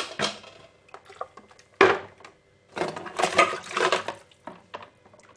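Dishes being lowered into a basin of hot soapy water: clinks of glass and plastic against one another and sloshing water, with a sharp clink about two seconds in and a longer stretch of clatter about three seconds in.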